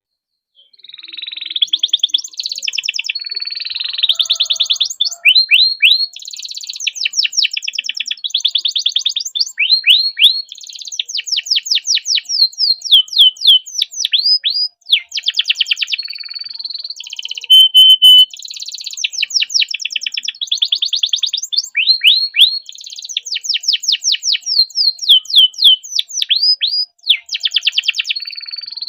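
Domestic canary singing a long, unbroken song of fast repeated-note trills and rolls, with a few short held whistles. The song starts about a second in.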